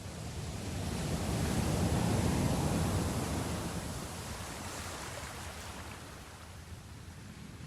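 Sea waves washing: a swell of surf noise builds over the first two seconds or so, then slowly ebbs away.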